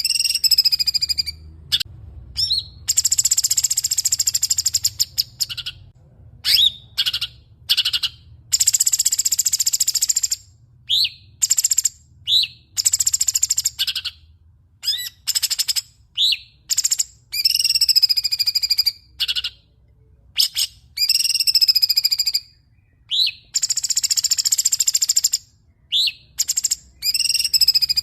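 Songbird song of the kind used as masteran training audio for pet songbirds: fast, high buzzy trills lasting a second or two, alternating with short sharp chirps and whistled notes that slide downward.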